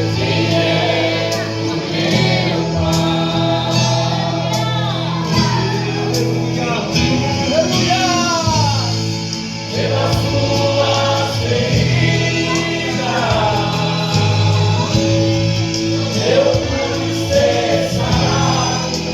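Gospel song with sung vocals over sustained keyboard or bass chords, with choir-like voices.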